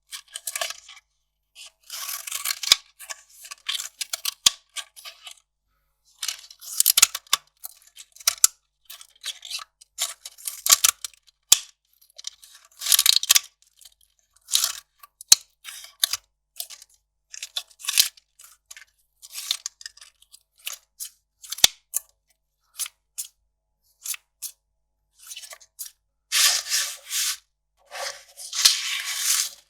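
Kraft paper handled close to the microphone: scissor snips, tearing and crinkling in short, separate bursts with brief pauses, plus a few sharp clicks. The longest, loudest stretch of rustling comes near the end.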